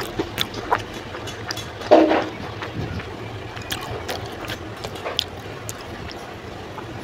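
Close-miked chewing of instant noodles, with wet mouth clicks, and a fork stirring through noodles on the plate; one louder short mouth sound about two seconds in. A low steady hum underneath.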